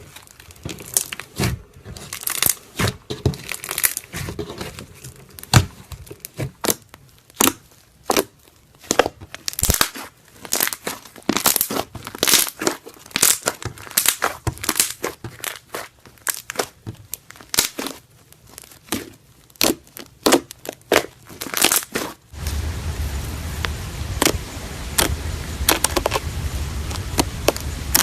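Slime being squeezed and worked by hand, a dense, irregular run of sharp crackling clicks and pops. About 22 seconds in, a steady low hum sets in under the clicking.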